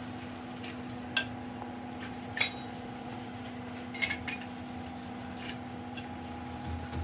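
Light metallic clinks of metal parts or tools being handled, a few separate strikes, over a steady machine hum.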